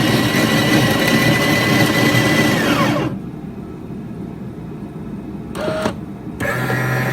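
Automatic espresso machine running: a motor whine that falls in pitch and cuts out about three seconds in, a quieter spell with a short tone, then a low steady hum as the machine starts up again near the end.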